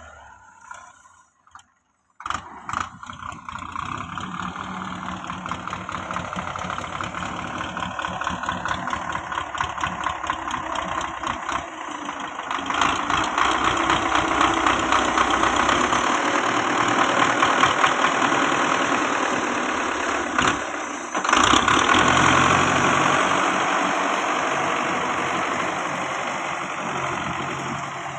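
Belarus 510 tractor's diesel engine running steadily. The engine grows louder about halfway through, with a brief break near the start and another about two-thirds of the way in.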